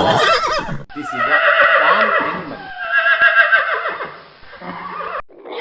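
Horse whinnying: a short wavering neigh, then after an abrupt break about one second in, a longer whinny that quavers and falls in pitch.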